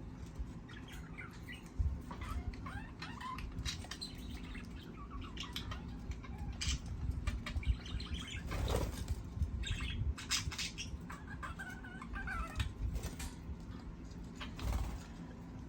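Small pet birds fluttering their wings, with short chirps and scattered light clicks and pecks.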